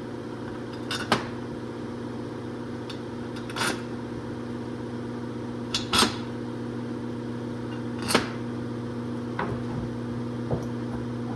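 Steady mechanical hum with sharp metallic clinks and knocks of tools and engine parts being handled, four louder ones roughly two seconds apart.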